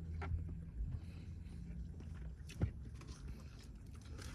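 Quiet chewing of a mouthful of fish sandwich: a few faint clicks and mouth noises over a steady low hum.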